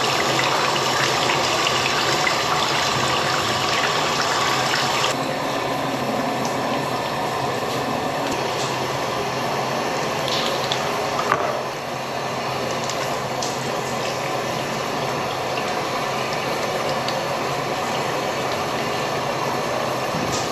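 Steady running water, a continuous hiss that gets softer about five seconds in, with one short click near the middle.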